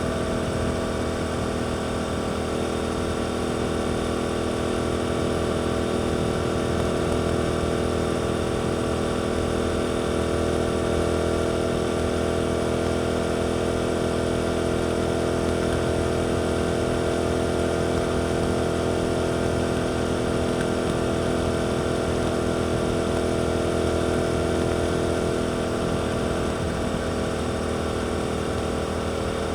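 Suzuki GSX-8S parallel-twin engine with an Arrow aftermarket exhaust running at fairly steady revs while riding, a held note with little change, easing slightly near the end.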